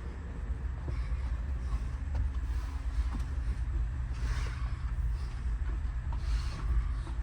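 Steady low rumble of the standing train's idling diesel locomotives, with a faint hum running through it.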